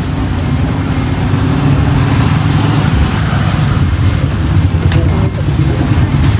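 Motorcycle engine of a tricycle running close by, a steady low engine note that grows louder about two seconds in.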